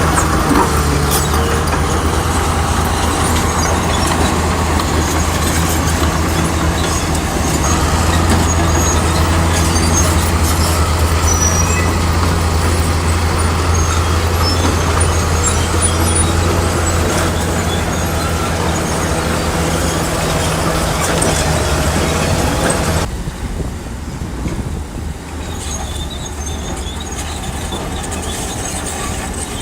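Heavy diesel engine of earthmoving machinery running steadily under load, with a deep steady drone. About three-quarters of the way through, the sound changes abruptly to a quieter, thinner engine sound.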